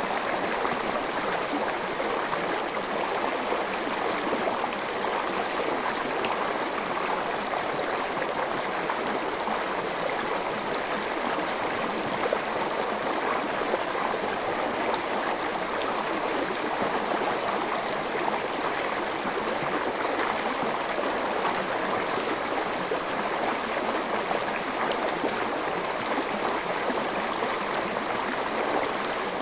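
Forest stream flowing steadily: a continuous, even rush of water that does not change.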